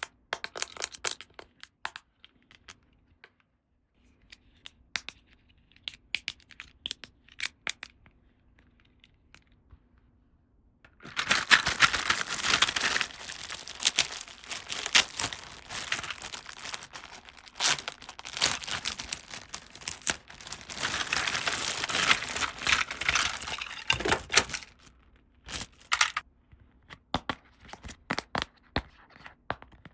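Toy packaging being unwrapped by hand: scattered light clicks and rustles, then about thirteen seconds of continuous crinkling and tearing, then light clicks again.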